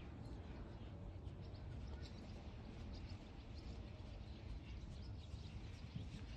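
Faint bird chirps scattered over a steady low rumble of outdoor background noise.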